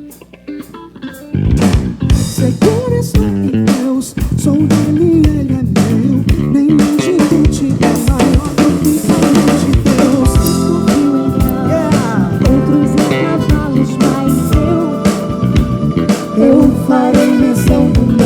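Live soul band playing an instrumental passage: drum kit with snare and rimshot hits, bass guitar and electric guitar. After a brief quiet moment it comes in loudly about a second and a half in and keeps a busy, steady groove, with held chords joining about ten seconds in.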